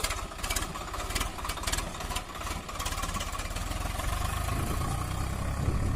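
Swaraj 744 FE tractor's three-cylinder water-cooled diesel engine running steadily, with a run of sharp clicks in the first couple of seconds; the engine grows louder from about halfway through.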